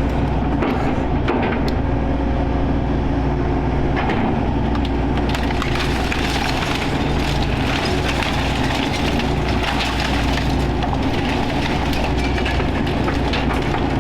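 Excavator engine running steadily while the machine tears into an old trailer's wooden structure, wood cracking and splintering with a constant crackle of breaking debris.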